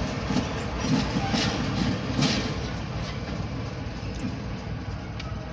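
Short freight train moving away: steel wheels clicking over rail joints under a steady low hum, fading slowly.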